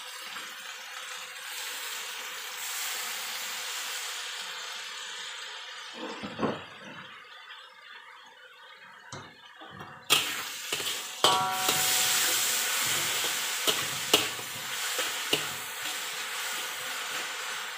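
Onions and soy sauce sizzling in a large aluminium wok, with a metal spatula scraping and knocking against the pan as they are stirred. The sizzle eases off about a third of the way in, then jumps much louder about ten seconds in, with several sharp clacks of the spatula on the wok.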